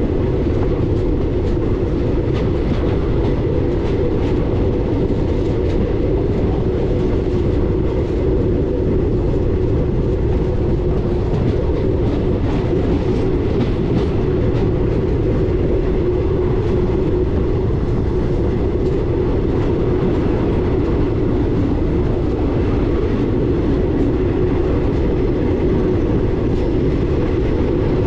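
Passenger train running steadily along the track: a continuous rumble with faint, scattered wheel clicks.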